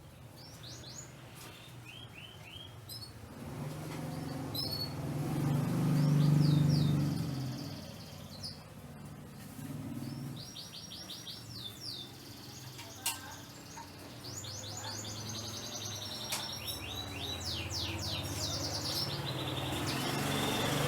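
Canaries singing, with repeated trills of quick falling notes. A low rumble is loudest about six seconds in, and there is a sharp click about halfway through.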